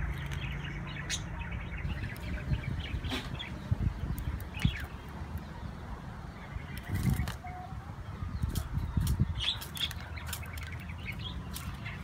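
Birds chirping in short, scattered calls, mixed with light clicks and taps as a zebra dove pecks seed from a plastic cup.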